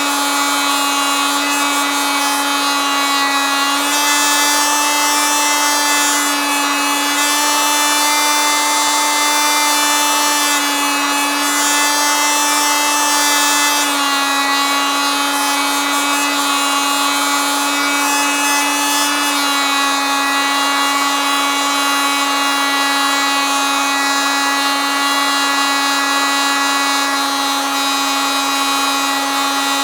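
Oscillating multitool running continuously with a steady, high buzzing whine. Its pitch steps slightly up and down a few times.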